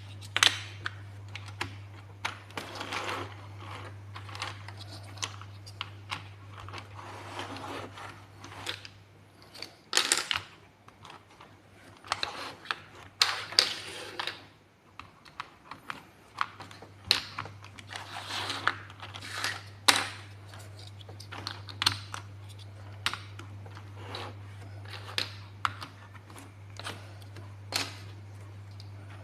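Plastic building blocks being handled and clicked together: irregular sharp clicks and snaps, with several short bouts of pieces rattling and rummaging, over a steady low hum.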